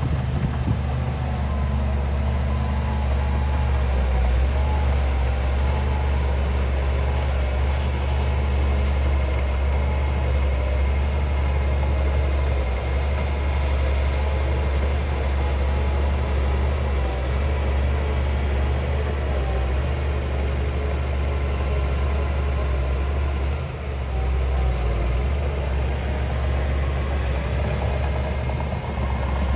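Heavy diesel engine of earthmoving machinery, a bulldozer or dump truck, running steadily with a deep low rumble. The sound dips briefly once a few seconds before the end.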